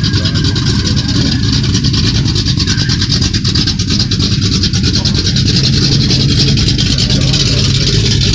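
Steady, loud vehicle noise: a low engine and road rumble under a constant hiss.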